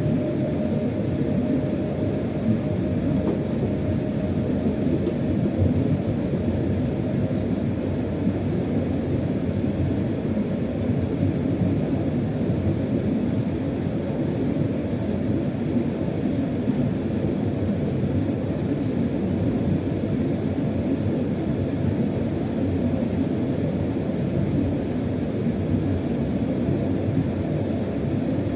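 Steady low rumble inside a freight locomotive's driver's cab while the train runs along the track.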